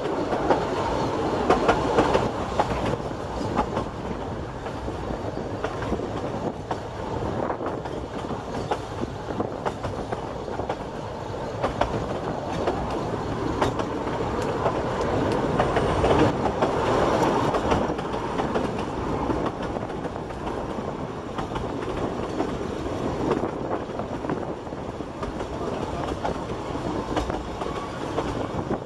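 Narrow-gauge train carriages running along the track, their wheels clacking over the rails, heard from a carriage window. The noise is louder in the first few seconds and again around the middle.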